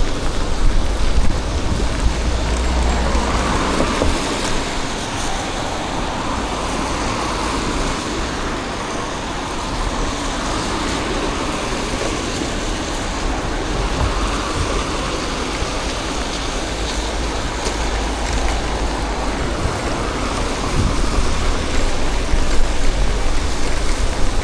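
Road traffic on wet city streets mixed with steady rain, with a couple of vehicles swelling past, about four seconds in and again around fourteen seconds.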